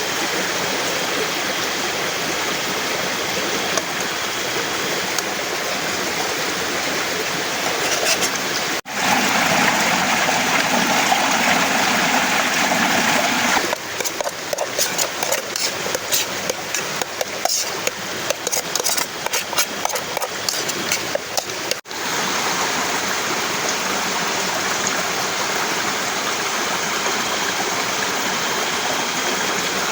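Heavy rain falling steadily in an even hiss. The sound cuts out briefly about 9 seconds in and again about 22 seconds in. Between the cuts it is louder at first, then turns to a close patter of many sharp ticks.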